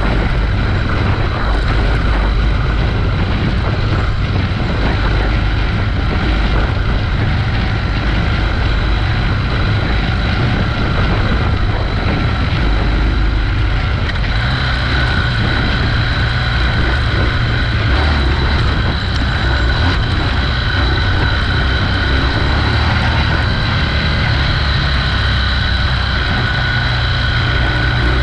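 Motorcycle engine running steadily under way on a dirt road, with wind on the microphone. The engine note climbs a little about halfway through.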